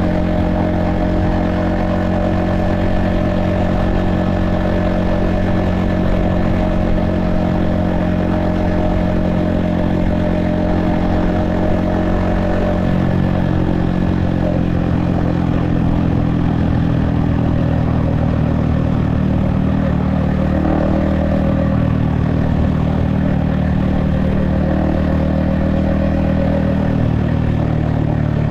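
Yamaha XSR155's 155cc single-cylinder engine and exhaust running steadily under way, heard from the rider's helmet. The engine note drops a little about halfway through and then holds.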